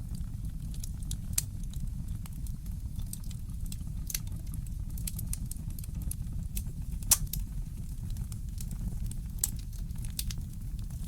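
Fireplace crackling: scattered sharp pops and snaps over a steady low rumble, with the loudest pop about seven seconds in.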